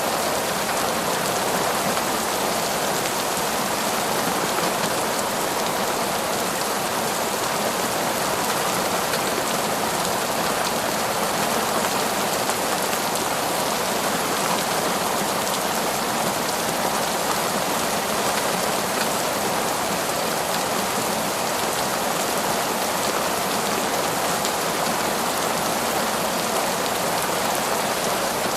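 Heavy rain pouring steadily onto foliage and ground, a dense even hiss without any thunder or breaks.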